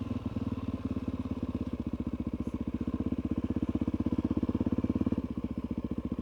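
Suzuki DR-Z400E's single-cylinder four-stroke engine running at low revs, an even rapid pulse of firing strokes that eases off slightly about five seconds in.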